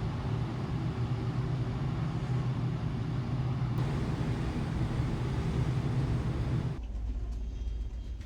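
Steady drone of a ferry's engines and machinery heard on board, a continuous low hum under even noise. About seven seconds in it cuts abruptly to a quieter deep rumble with a few faint ticks.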